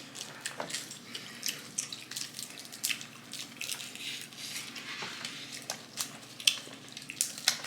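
Snow crab leg shells being cracked and picked apart, with wet eating and dipping sounds: irregular sharp cracks and clicks throughout.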